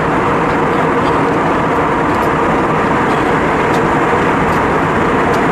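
Steady roar inside the passenger cabin of an Airbus A320-232: air rushing past the fuselage and the drone of the engines, even in level throughout, with a faint steady hum beneath.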